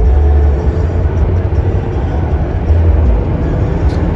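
Loud, uneven low rumble of vehicle and road noise.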